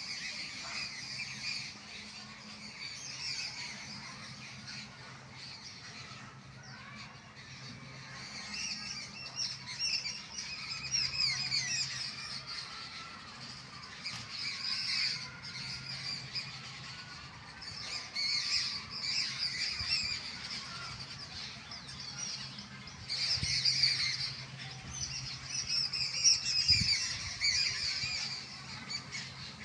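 A flock of birds chattering in a tree: many short chirps and squawks overlap continuously, swelling louder in stretches.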